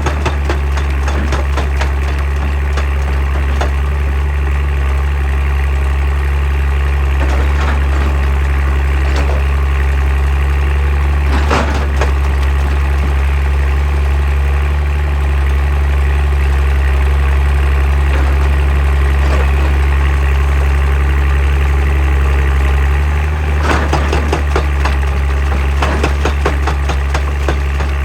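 Excavator's diesel engine running steadily with a deep, constant drone, with scattered sharp metallic clanks from the working machine, a cluster of them about two-thirds of the way through.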